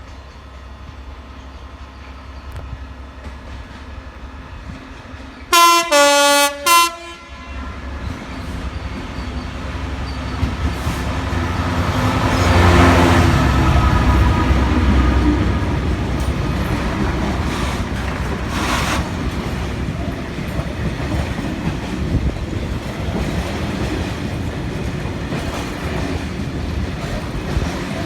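Class 66 diesel locomotive giving three short, loud horn blasts about six seconds in, then passing with its EMD two-stroke V12 engine, loudest about thirteen seconds in. A train of steel flatbed wagons follows, rattling along the rails.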